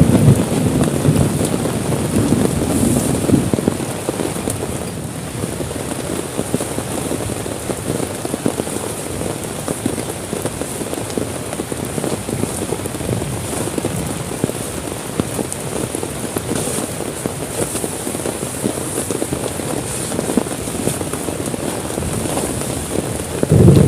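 Heavy rain falling steadily on a tent, with a low rumble in the first few seconds that fades away.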